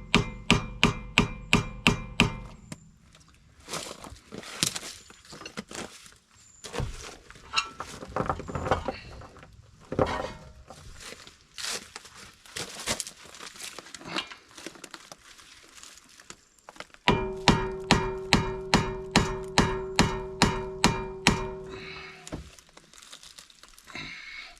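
Hammer blows on a screwdriver set in a rusted brake rotor retaining screw, shocking it loose. Two runs of rapid strikes, about four a second, at the start and again late on, the later ones with a metallic ring, with scattered knocks in between.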